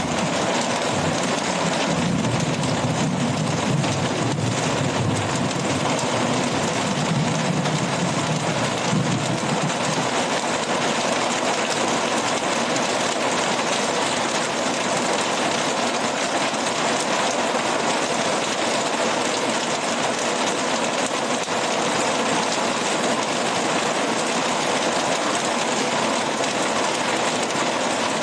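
Very heavy rain pouring steadily, a dense even hiss. A low rumble sits underneath for about the first ten seconds.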